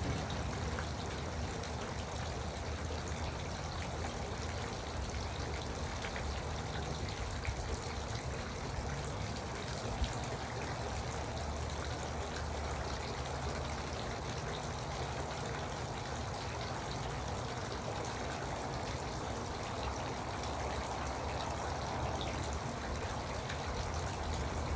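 Garden water fountain running: water trickling and splashing steadily.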